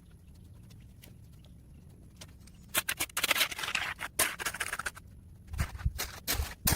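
Shovel scraping through wet sediment and debris in a few rough bursts, then several dull thumps near the end.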